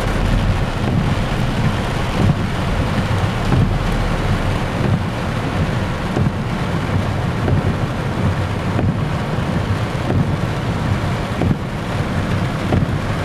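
Heavy rain falling steadily on a car's roof and windscreen, heard from inside the car, with a deep rumble underneath.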